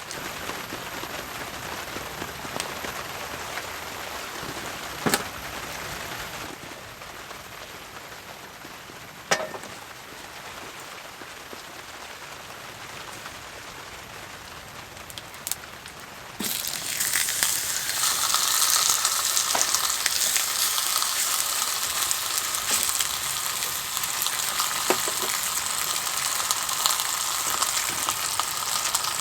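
Rain pattering steadily on a tarp, with a few sharp knocks. A little over halfway through, a loud sizzle starts suddenly as a pork chop goes into a hot frying pan, and it keeps frying steadily.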